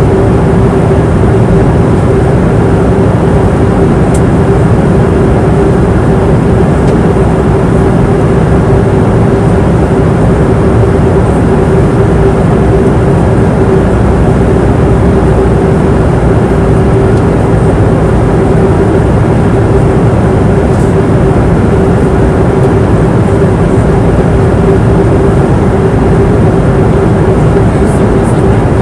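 Airliner cabin noise in flight: a steady, loud rush of engine and airflow noise with a constant hum running through it.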